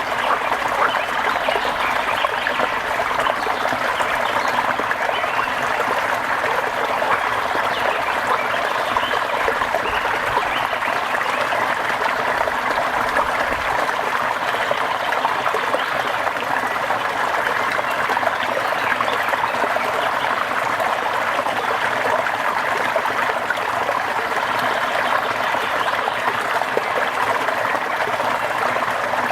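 Steady rain falling: an even, dense patter of drops that holds constant throughout.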